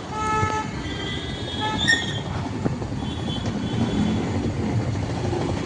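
Traffic rumble at a bus stand, with short high-pitched squeals over it in the first two seconds and again around three seconds in.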